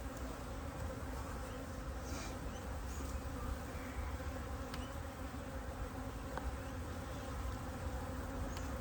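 Honeybee colony buzzing in an opened top bar hive: a dense, steady hum raised in tone as the bees react to the frames being handled roughly, with a few faint clicks.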